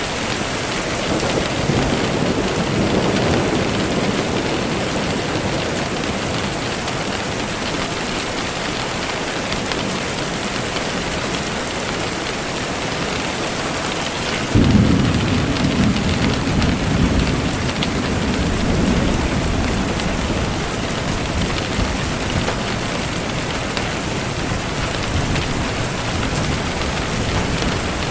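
Steady heavy rain with thunder: a low rumble that fades over the first few seconds, then about halfway a sudden, louder thunderclap that rumbles on for several seconds before dying away.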